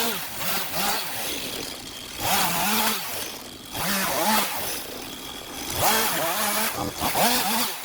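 STIHL MS 251 two-stroke chainsaw engine revved up and down in about four surges, its pitch rising and falling with each throttle squeeze.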